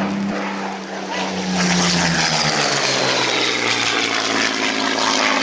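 Propeller-driven aircraft flying past: the engine gets louder about a second and a half in and its note drops in pitch as it passes, then settles into a steady drone.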